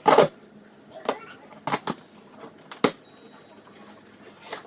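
A series of sharp clicks and knocks of hard parts being handled, about half a dozen, spaced irregularly. The loudest comes right at the start.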